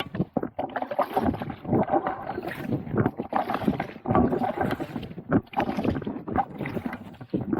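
Kayak being paddled: water splashing around the paddle blades and hull in an uneven run of strokes.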